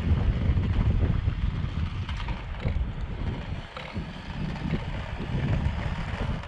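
Wind buffeting the microphone: a loud, uneven low rumble that rises and falls.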